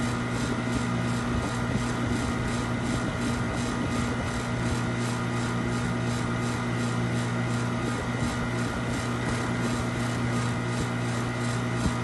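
A machine running steadily: a constant low hum, with a hiss above it that pulses about three times a second.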